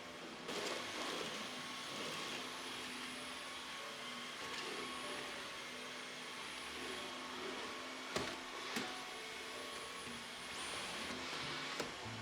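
Vacuum cleaner running steadily, with a few sharp knocks as it bumps against things.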